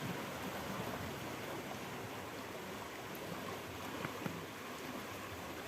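River water flowing, a steady even hiss, the river running high and fast after heavy rain. A faint knock or two about four seconds in.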